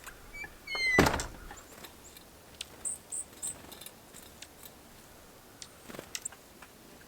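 A single loud dull thump about a second in, preceded by a few short falling chirps, with faint high chirps and light clicks and knocks after it.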